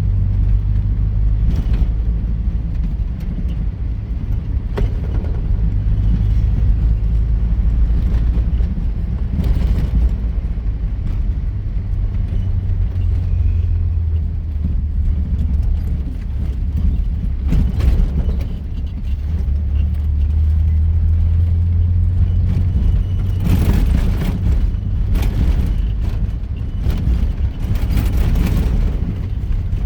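A vehicle driving over rough ground: its engine and running gear give a steady low drone, with scattered knocks and rattles from bumps, more frequent near the end.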